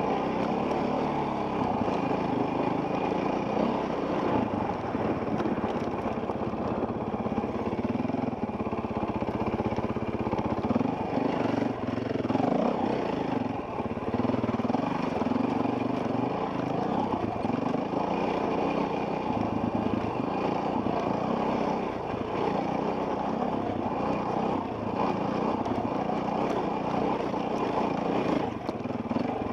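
Enduro dirt bike engine running continuously, its note rising and falling as the throttle is worked along a trail.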